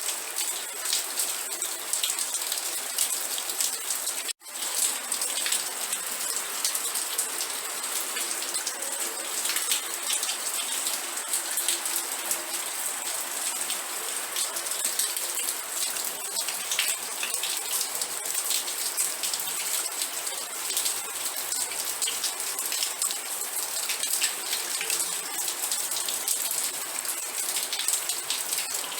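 Steady rain, dense with many separate drop ticks close by. The sound cuts out completely for an instant about four seconds in.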